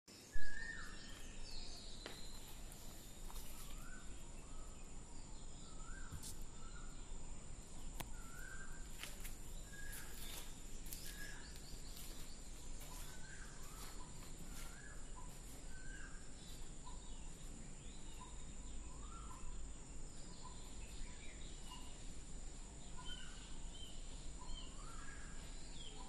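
Birds calling over open-air ambience: short rising chirps, one after another about every second, with a steady high-pitched tone underneath and a few sharp clicks in the middle. A single loud knock comes right at the start.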